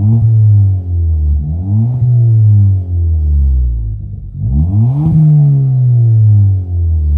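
Ford Fiesta ST's 1.6 EcoBoost turbo four-cylinder revved while standing, heard through a new 3-inch Powerflow cat-back exhaust: three quick blips of the throttle, each rising sharply and falling back toward idle, the last about five seconds in the highest.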